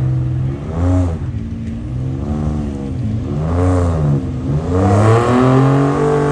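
Gasoline pickup truck engine revved up and down about three times, then brought up to high revs and held there near the end.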